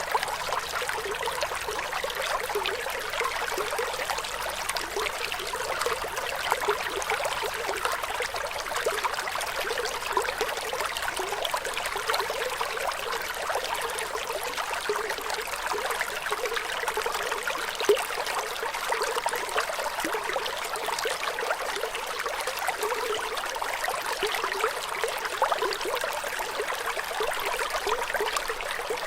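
Running water trickling and babbling steadily, a continuous splashy hiss without pauses.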